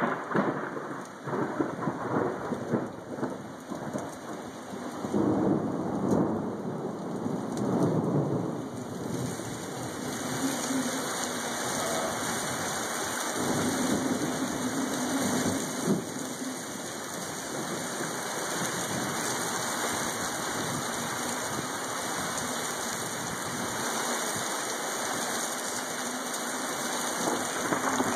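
Thunderstorm downpour with strong wind: a dense, steady rush of rain and wind, with louder rumbling surges in the first several seconds before it settles into a steadier hiss.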